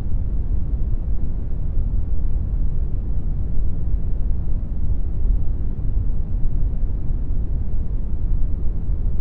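Computer-generated brown noise: a steady, deep rumbling hiss with most of its energy in the low end, unchanging throughout.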